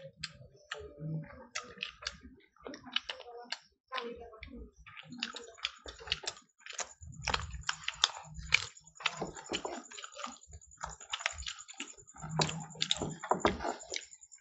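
Close-miked eating sounds of two people eating fried fish and rice by hand: irregular wet chewing, lip smacks and clicks. A thin, steady high whine joins about a third of the way in.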